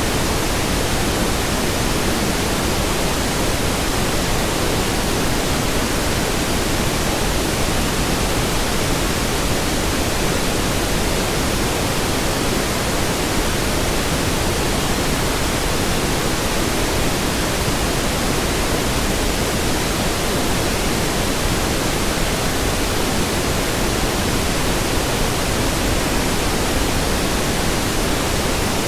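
Steady pink noise: an even, full-range hiss with no changes.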